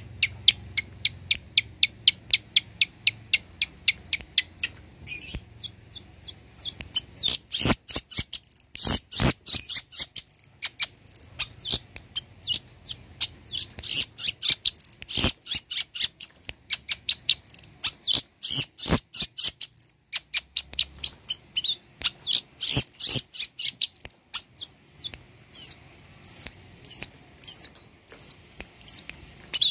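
Long-tailed shrike (cendet) in full song: a fast, varied stream of sharp, high chips and chatter in quick runs, the kind of song that mixes in imitations of other birds. Near the end it switches to a series of short falling whistles.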